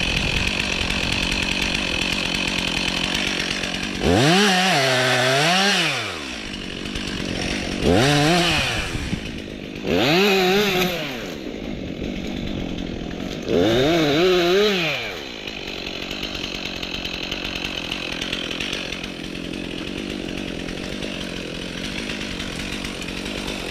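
Stihl MS 362 C two-stroke chainsaw running at low revs, throttled up in four short bursts of one to two seconds each, the pitch rising steeply, holding high and dropping back, as it cuts birch wood.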